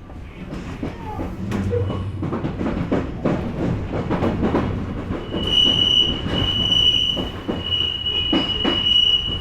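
Odakyu electric train pulling away, running with a rumble and a string of knocks from wheels crossing rail joints and points. From about halfway through, a steady high-pitched wheel squeal sets in.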